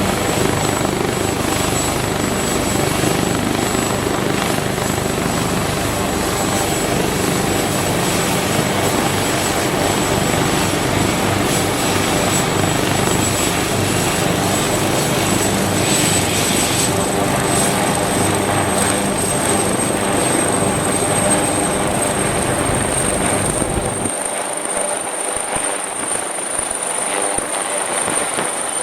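Helicopter running loudly and steadily, its rotor and turbine filling the sound, with a high turbine whine that slowly rises in pitch through the second half. About 24 seconds in, the low rumble drops away and the sound gets a little quieter.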